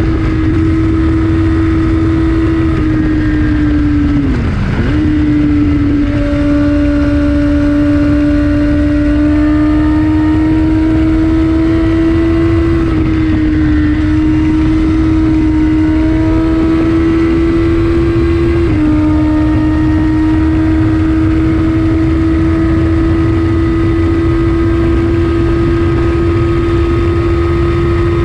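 2014 Kawasaki ZX14R's inline-four through an Akrapovic Racing Line exhaust, held at high, nearly constant revs at speed over a low rush of wind. About four seconds in, the revs dip briefly and pick up again.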